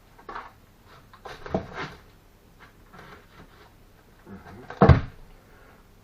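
Bricks being handled and set in place during bricklaying: a few dull knocks and scrapes, the loudest a heavy thump about five seconds in.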